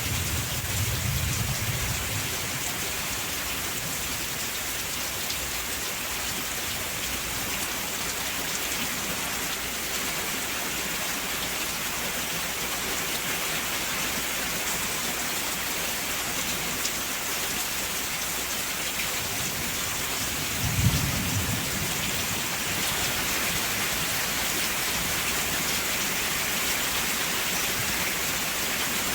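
Steady rain falling, with two low rumbles of thunder, one near the start and a second, sharper one about two-thirds of the way through.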